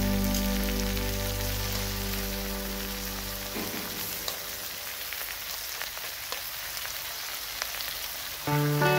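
Beef and vegetables frying in a wok: a steady sizzling hiss with a few sharp spatter pops. Background music plays over the first few seconds, stops, and comes back near the end.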